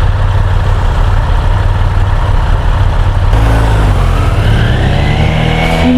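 Motorcycle engine and wind noise heard from the rider's helmet microphone while riding. About halfway through, the engine note climbs steadily in pitch as the bike accelerates.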